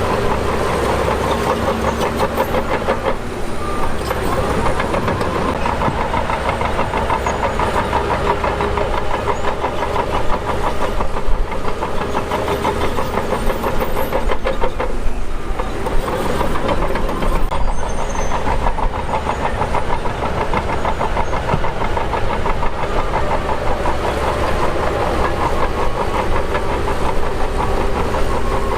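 Shantui DH17 bulldozer's diesel engine running steadily under load, with two brief dips in its note, one a few seconds in and one about halfway through, before it picks back up.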